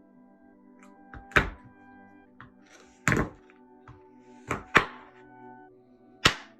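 About five sharp knocks of kitchen utensils and dishes being set down or struck, irregularly spaced, over soft background music.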